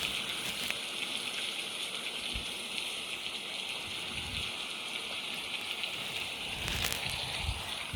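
Steady heavy rain falling, an even hiss with a few soft drips and thuds, and a brief louder patter near the end.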